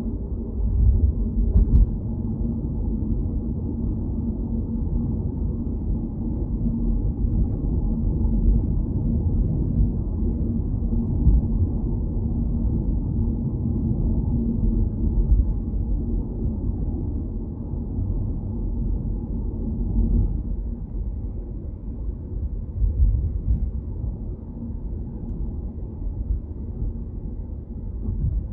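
Steady low rumble of a car on the move: road and engine noise, swelling a little now and then.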